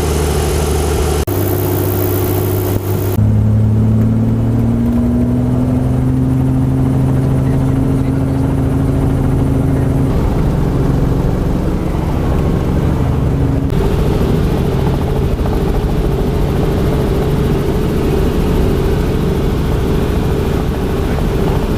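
Helicopter engine and rotor running steadily in flight, a loud constant drone whose hum changes abruptly a few times, with one tone rising slowly in pitch.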